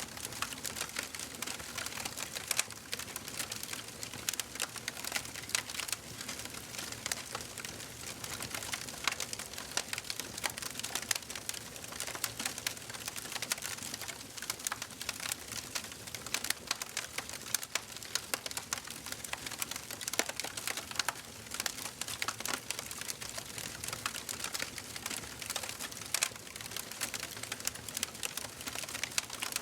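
Wood fire in a fireplace crackling steadily: dense, irregular pops and snaps over a soft hiss of burning.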